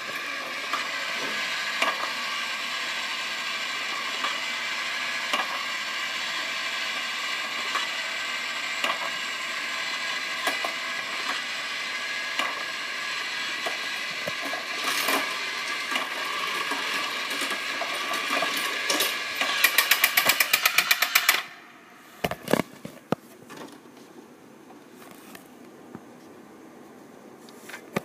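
Small electric motor of a Tomica toy playset whirring steadily with plastic rattling and clicks, ending in a fast run of loud clicks before it stops; a few plastic clacks follow.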